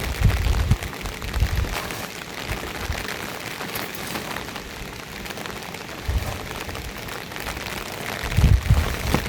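Steady rain falling, an even hiss of many small drop ticks, with low rumbles near the start and again near the end.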